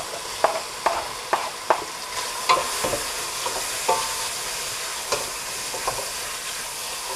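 Sliced squid going into hot olive oil with mushrooms and garlic in a stainless steel pot, sizzling steadily while it is stirred. A wooden spoon scrapes the squid off a plastic cutting board and knocks and scrapes in the pot, several sharp knocks in the first two seconds, then sparser.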